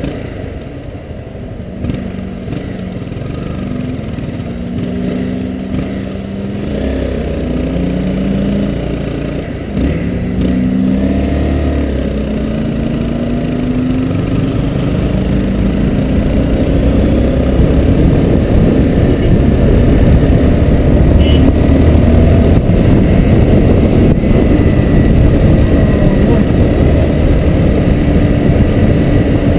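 Honda CBR250R's single-cylinder engine running in slow city riding, pulling up in pitch in several short rises in the first half. A rushing wind noise on the microphone grows louder through the second half.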